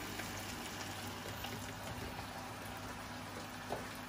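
Chopped chicken sautéing in a saucepan: a steady soft sizzle with fine crackling, and a small knock about three and a half seconds in.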